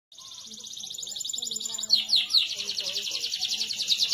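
Domestic canary singing a rolling song: a rapid, even trill of high notes. About two seconds in it switches to a louder trill of quick falling notes.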